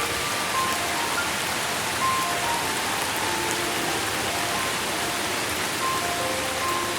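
Steady rain, an even hiss of falling water, with a slow, soft melody of short single notes played over it.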